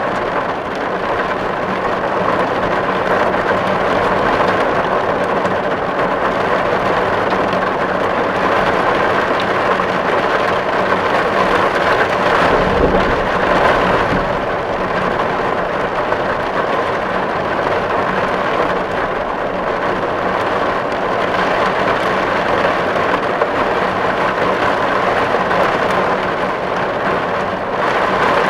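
Steady heavy rain drumming on a metal tin roof, a dense patter of drops with a brief low swell about halfway through.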